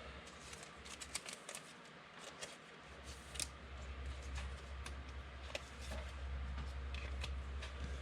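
Trading cards being handled and flipped through, a scattered run of light clicks and rustles. A low steady hum comes in about three seconds in.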